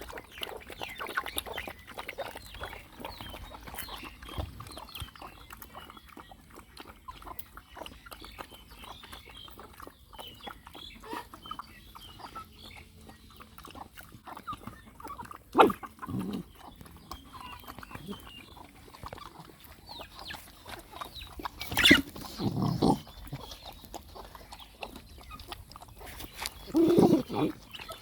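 Dogs and puppies feeding, with steady small eating and nursing noises and a few louder short dog grunts or yelps, one about halfway through and two near the end.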